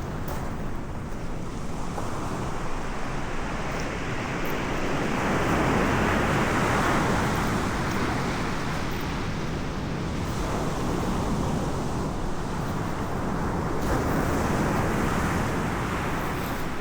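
Ocean surf rolling in, the rush swelling and fading in slow waves, with wind on the microphone.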